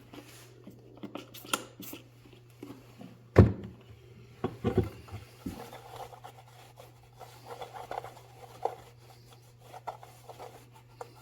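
Glass cleaner being sprayed and wiped off aluminium checker plate with a cloth: a few quick sharp sprays, a loud knock about three seconds in, then rubbing and wiping.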